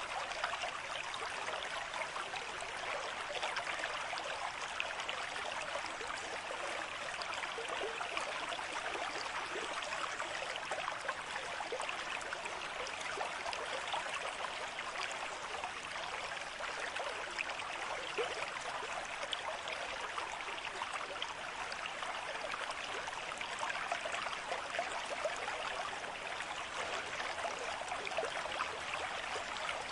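Running stream water, a steady babble full of tiny splashes.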